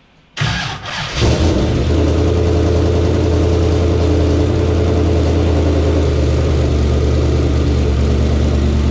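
Turbocharged LS6 V8 started: a short burst of cranking that catches at about a second in, then a steady idle.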